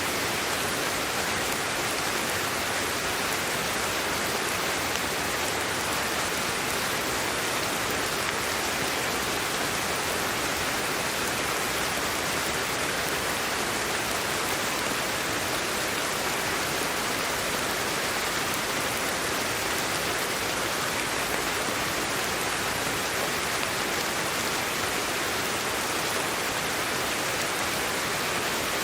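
Steady sleep-aid white noise: an even hiss with no breaks and no change in level.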